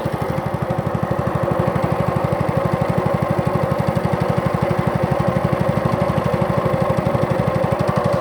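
Small boat engine running steadily on the river, with a fast, even thumping pulse.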